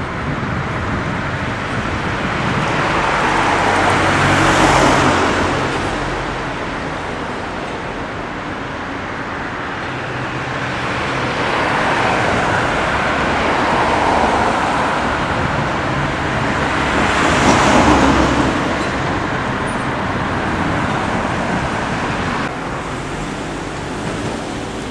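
Street traffic: cars passing one after another over a steady background of road noise, with the loudest passes about five seconds in and again around eighteen seconds.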